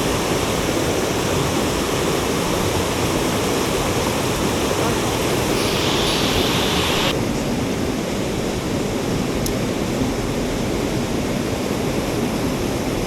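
Mountain stream water rushing steadily over rocks; its hiss thins out about seven seconds in.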